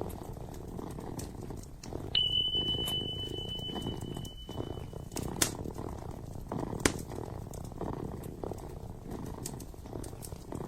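Kitten purring steadily, with the sharp pops and crackles of a wood fire, two of them loud in the second half. About two seconds in, a steady high-pitched beep starts and holds for about three seconds.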